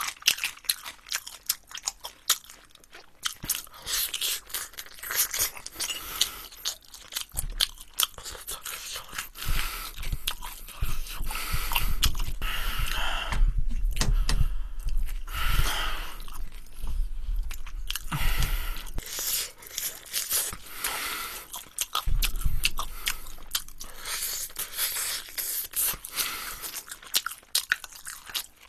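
Close-miked chewing and crunching of glazed fried chicken and rice cakes, with crisp crackles of the coating throughout; it is heaviest in the middle, from about eight to nineteen seconds in.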